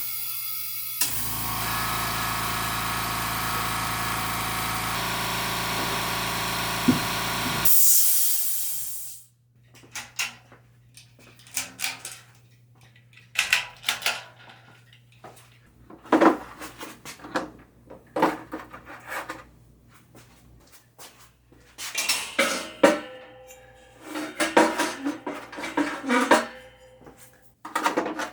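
A quiet air compressor runs steadily for about seven seconds, then stops with a loud burst of air hiss. It is followed by scattered metallic clanks and clicks of tools being handled.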